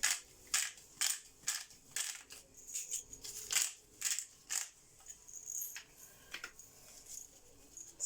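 Hand pepper mill grinding black peppercorns: a series of short gritty crunches, about two a second, that thin out after about five seconds.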